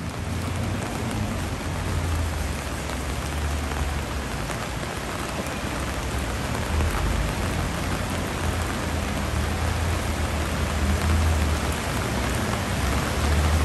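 Heavy rain falling on a flooded street, a steady hiss, over a low rumble of traffic driving through the floodwater.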